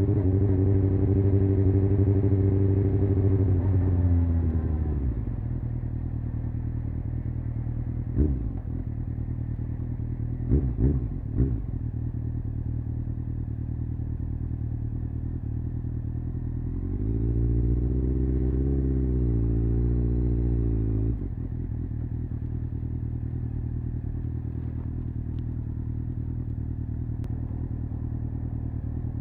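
Honda CBR600F's inline-four engine running at steady revs, which drop about four seconds in to a low, even idle. A few quick throttle blips follow, then several seconds of raised, slightly wavering revs past the middle before it settles back to idle.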